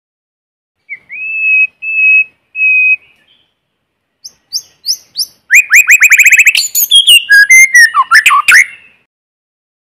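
White-rumped shama singing: three clear, steady whistled notes about a second in, then after a pause a fast run of about a dozen quick descending notes, followed by a varied warbling phrase with sharp clicks.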